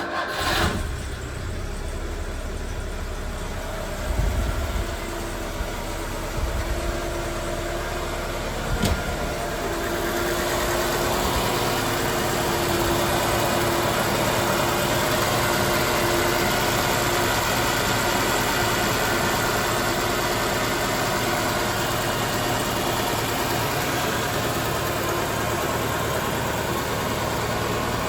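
Citroën DS23 fuel-injected four-cylinder engine starting from cold: it catches at once and runs, with a few brief surges in the first ten seconds, then settles into a steady idle.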